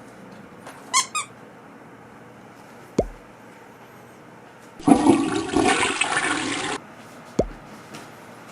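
A rush of water-like noise, about two seconds long, that starts and stops abruptly. It is set between two short, steeply falling blip tones, with a couple of quick high clicks near the start.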